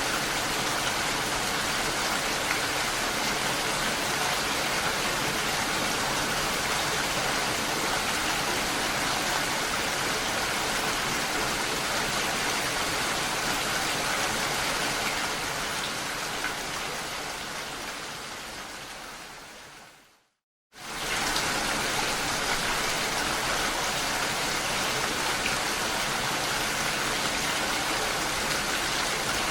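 Steady rain falling, an even hiss without distinct drops or rhythm. It fades out over several seconds to a brief moment of silence about twenty seconds in, then cuts straight back in at full level.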